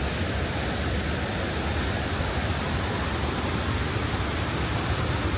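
Steady rushing of running water, an even hiss with a low rumble underneath that does not change.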